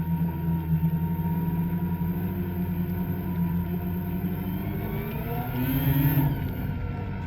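Two-stroke snowmobile engine running steadily, then revving up in a rising whine about five seconds in before dropping back.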